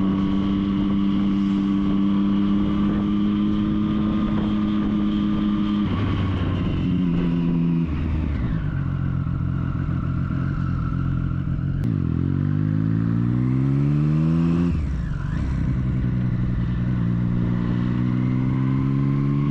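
Triumph Street Triple's three-cylinder engine running under way, over a rush of riding noise. The engine note drops in steps about six and eight seconds in. From about twelve seconds it revs up steadily for a few seconds, drops again, and settles to a steady pull.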